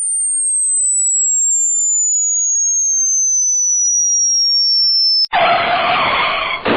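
Sound effect of a single pure electronic tone, high-pitched, gliding slowly and steadily downward for about five seconds, then cutting off abruptly. A rooster crow effect starts right after the cut-off.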